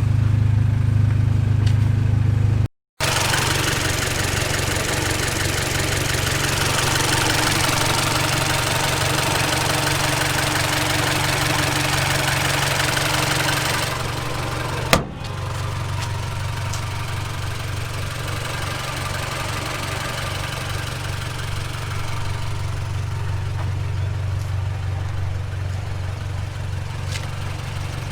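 Honda Civic EG6's engine running steadily, with a wash of road and wind noise over it for the first half. After a sharp click about halfway, the hiss falls away and the engine hum runs on by itself, as at idle.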